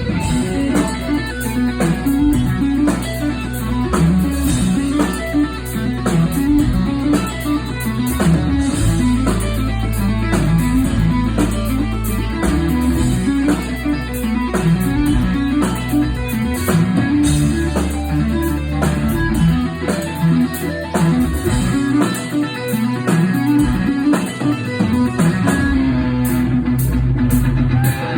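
Live amplified electric guitar playing quick runs of notes over a bass line; the bass drops away for a few seconds in the last third.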